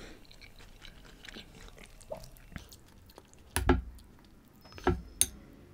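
Soft, close-miked chewing of a mouthful of chicken biryani. About three and a half seconds in come three sharp taps and thumps around the plate as raita is taken up by hand and dropped onto the rice.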